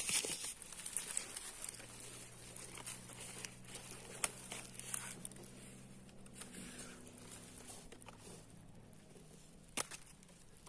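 Faint rustling and crackling of leaves being handled, with a few sharp clicks. A faint low steady hum sits underneath through the middle.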